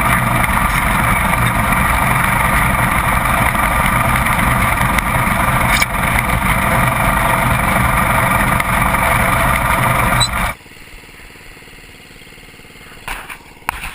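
Lawn tractor engine running steadily while the tractor plows snow. The engine sound stops abruptly about ten and a half seconds in, leaving it much quieter.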